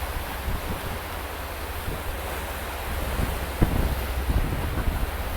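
Wind buffeting the microphone aboard a boat at sea, over a steady low rumble, with a single sharp knock about three and a half seconds in.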